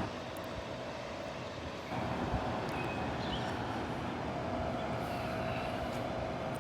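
Steady outdoor rumble of wind and ocean surf, with a few faint high chirps about halfway through.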